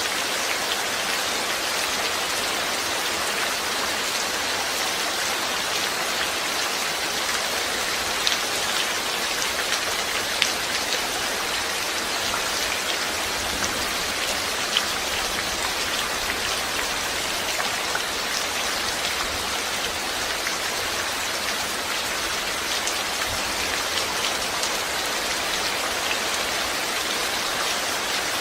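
Steady rain falling, an even hiss with the patter of individual drops and a few louder drip ticks scattered through.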